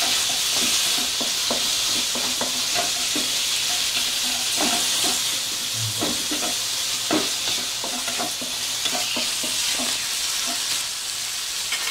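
Pieces of chicken breast sizzling in hot oil in a wok, stirred with a wooden spatula that scrapes and knocks irregularly against the pan.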